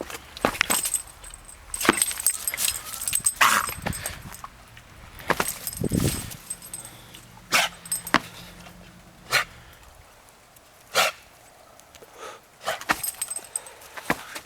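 A dog's short barks, scattered irregularly, with a quieter stretch about two thirds of the way in.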